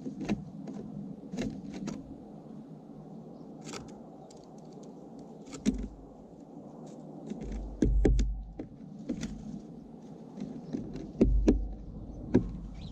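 Small birds feeding right next to the microphone: irregular clicks and taps of beaks and feet on seed and the feeder. There are dull thumps about eight seconds in and again near eleven seconds.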